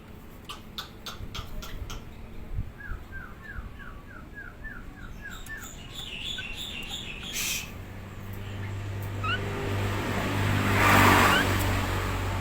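Nias hill myna calling: a few sharp clicks, then a quick run of about eight short rising whistled notes and some higher notes. Near the end a low hum swells into a loud rush that drowns the bird.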